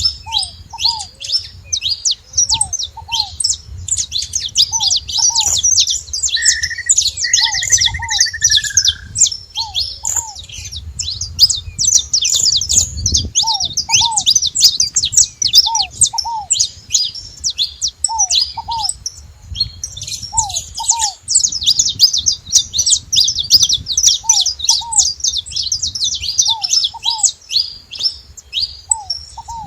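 Saffron finches chirping and singing in rapid, high, nearly unbroken strings at a feeding spot, with a short break about two-thirds of the way through. A lower pair of short notes repeats every couple of seconds underneath, and a single falling whistle sounds briefly near the start.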